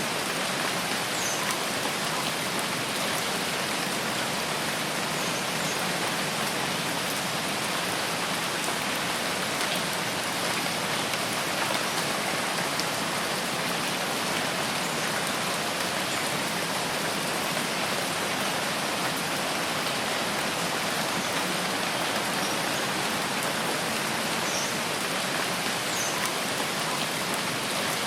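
Steady rain falling, an even hiss that does not let up, with a few faint high chirps now and then.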